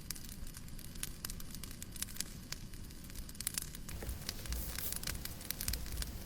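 Fireplace crackling: irregular sharp pops and snaps over a steady hiss, with a low rumble that grows stronger about two-thirds of the way through.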